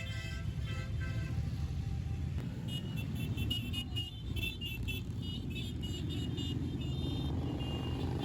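Motorcycle engines running as a column of bikes rides past, a steady low rumble, with short high horn toots in the middle.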